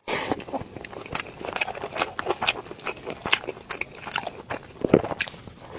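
Close-miked chewing of a mouthful of rice with green pepper and shredded pork: a run of irregular, quick wet mouth clicks and smacks.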